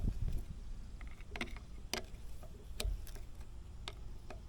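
Scattered sharp clicks and knocks of hand tools and metal parts being handled during repair work on a hydraulic pump, about half a dozen at irregular intervals.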